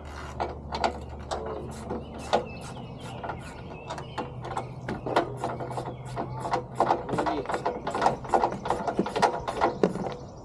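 Hand socket ratchet clicking in quick, irregular runs of strokes as bolts are turned, the clicks coming thicker in the second half.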